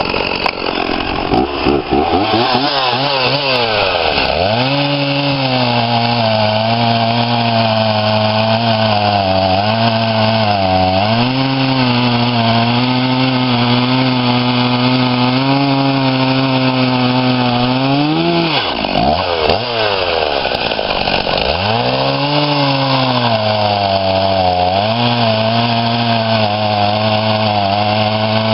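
Husqvarna 50 two-stroke chainsaw running at high revs. The engine note dips sharply and climbs back about four seconds in and again near the twenty-second mark.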